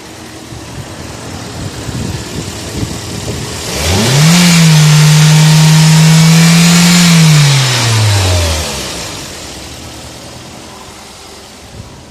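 Toyota Echo's 1.5-litre four-cylinder engine revved once: it rises quickly, holds a steady high rev for about three seconds, then drops back to idle. It runs smoothly, with the misfire cured by replacing a counterfeit ignition coil.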